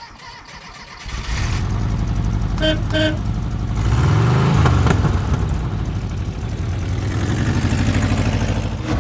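A 1979 Volkswagen Westfalia Type 2 van's air-cooled flat-four engine starts about a second in, with two short beeps soon after. It revs up and back down, runs steadily, and rises again near the end.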